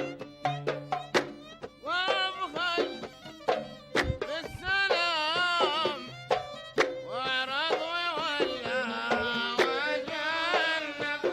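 Instrumental passage of a Bahraini sawt song: the ensemble plays a gliding, ornamented melody over sharp hand-drum strikes. The melody comes in about two seconds in, pauses briefly around six seconds, then resumes.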